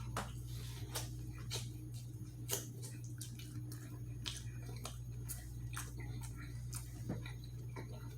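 Close-up eating sounds: irregular wet smacks and clicks of chewing, a few a second, over a steady low hum.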